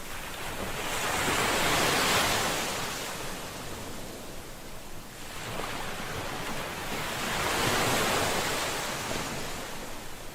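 Ocean waves breaking on a shore, two waves swelling and washing in about six seconds apart, peaking about two seconds in and near the end.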